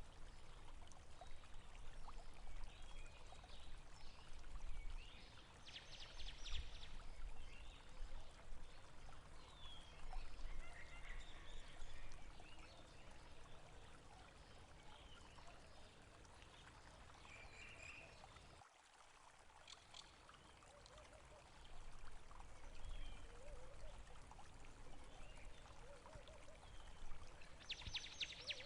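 Water trickling and flowing in a small stream, with birds chirping and a few short rapid trills. The sound drops briefly and changes abruptly about two-thirds of the way through.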